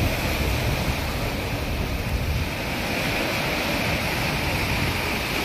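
Wind buffeting the microphone over a steady rush of sea surf. The low rumble of the wind is heaviest for the first two seconds or so, then eases.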